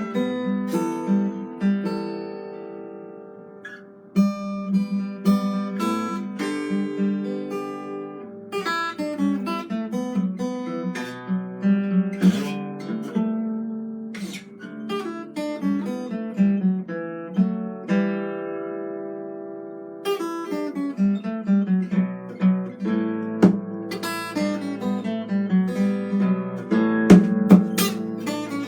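Acoustic guitar played solo: plucked notes and strummed chords. A chord is left to ring and die away around two to four seconds in, and again just before twenty seconds.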